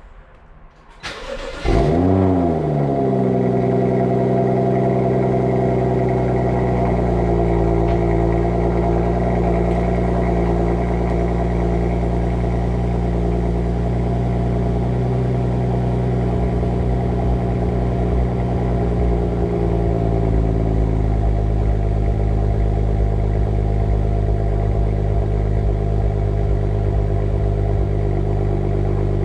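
2016 BMW 435i xDrive's N55 turbocharged straight-six through the M Performance exhaust, cold-started close to the tailpipe: a brief crank, then the engine catches about two seconds in with a rev flare that falls away. It settles into a steady fast cold idle that drops a little lower about twenty seconds in.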